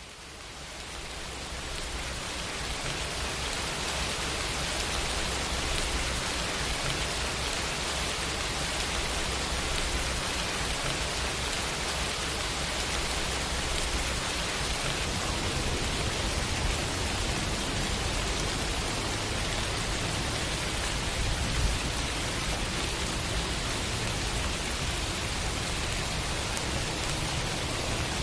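Steady rain hiss, fading in over the first couple of seconds and then holding even, with a steady low rumble underneath.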